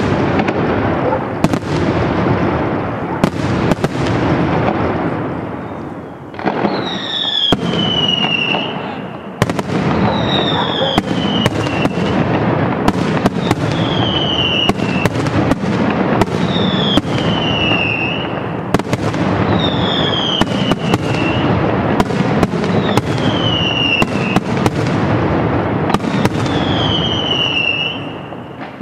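Daytime aerial fireworks going off in a continuous barrage of rapid bangs and crackling. From about six seconds in, a falling whistle sounds every second or two. The barrage eases briefly about six seconds in and again near the end.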